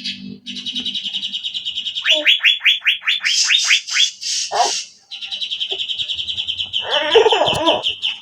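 Asian fairy-bluebird (cucak biru) calling in rapid, sharp repeated notes: fast trills and a run of short downward-sweeping whistles, broken by harsher rasping notes. A brief lower, rougher sound joins in near the end.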